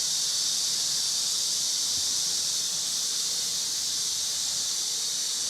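Water spraying steadily from a shower head in an even, continuous hiss, rinsing a small dog.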